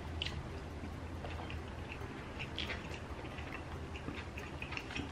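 Close-up eating sounds: people chewing food with their hands, with scattered short mouth clicks over a steady low hum.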